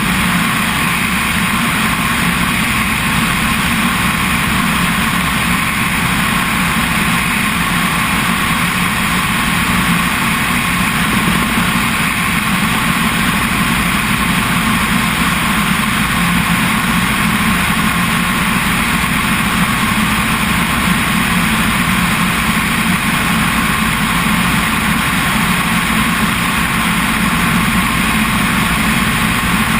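Helicopter engine and rotor noise, running steadily at one even pitch and loudness.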